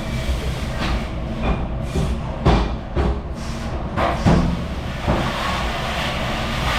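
Dishes and wares clattering, with a series of sharp knocks over a steady machine rumble.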